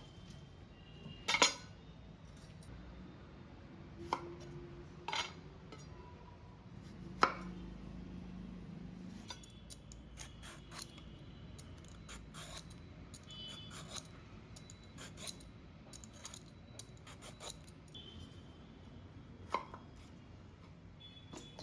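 Kitchen utensils and cookware clinking and knocking while curry is being cooked. Three sharper knocks stand out, and between them comes a busier run of small metallic clicks with brief ringing.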